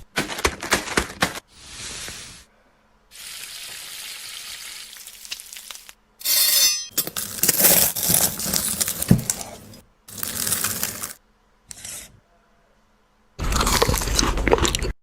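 A quick succession of short food-preparation sounds that start and stop abruptly: clinks, rustling and a steady hiss like sizzling.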